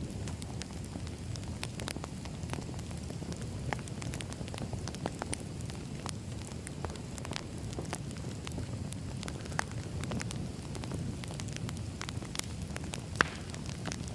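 Firewood burning: a steady low rumble of flames with scattered crackles and pops throughout, the sharpest pop about thirteen seconds in.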